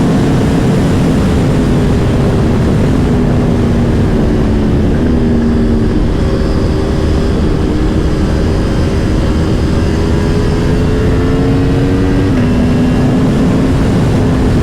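Aprilia Tuono V4 Factory's V4 engine running at speed under heavy wind roar on the microphone, its steady note dropping in pitch about five seconds in and again about twelve seconds in.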